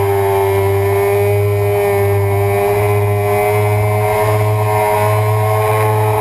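Suzuki sport bike engine running hard at high revs, the pitch held nearly steady through a fast corner, with wind noise rushing over the bike.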